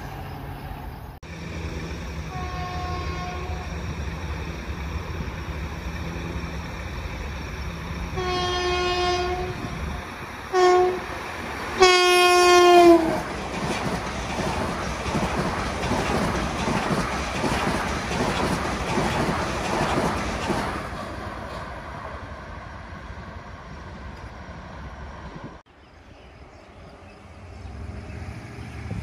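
Long Island Rail Road passenger train approaching with a steady rumble and sounding its horn four times: a brief blast, then a longer one, a short one and a final long blast that drops in pitch as the train goes by. The train passes with loud rushing wheel-and-rail noise that dies away, and near the end another rumble begins to build.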